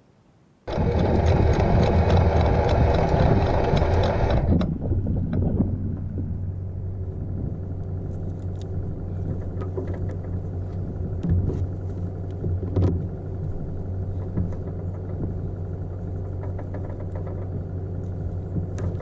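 Sailboat's inboard diesel engine starting, loud for the first few seconds, then settling into a steady idle rumble.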